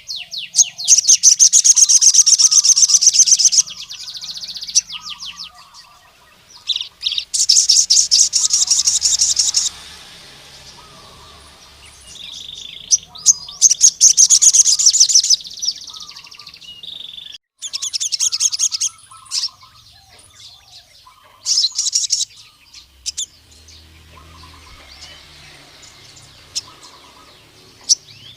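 Male sogon (crimson sunbird) singing: loud, high-pitched, rapid trilling phrases of one to three seconds, repeated with short pauses. This is the full wild-type song used to call out and challenge a rival male. Fainter short chirps from other birds run underneath.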